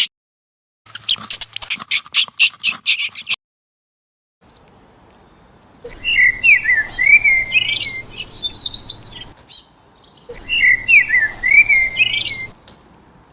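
Small bird singing: quick high chirps, then two phrases of rapid whistled notes sliding up and down, with short silences between.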